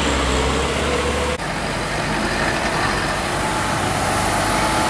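Heavy diesel truck-and-trailer rigs passing, engine drone with road noise; the sound changes abruptly about one and a half seconds in.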